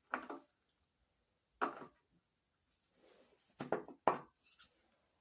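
Metal tools and parts clinking and knocking as they are handled and set down: about four short knocks, the last two close together.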